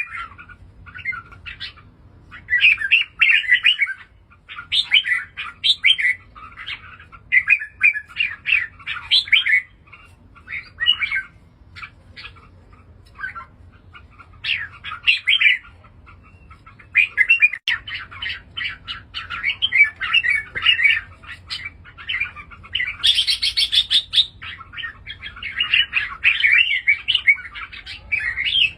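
Red-whiskered bulbul singing: short, chattering song phrases repeated one after another with brief pauses between them, and one harsher, higher burst about two-thirds of the way through.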